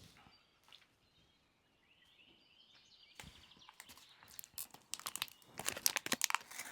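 A short faint bird chirping about two seconds in, then a dense run of rapid crunching and crackling that gets louder over the last two seconds.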